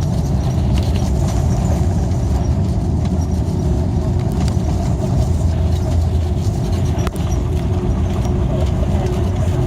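Steady cabin rumble of an Airbus A330 airliner in flight: engine and airflow noise heard from inside the passenger cabin, with a faint steady hum and a single click about seven seconds in.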